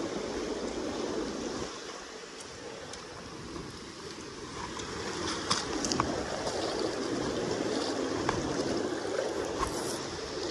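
Kenai River current rushing past the bank, a steady wash of flowing water that dips for a couple of seconds near the start, with a few faint clicks midway.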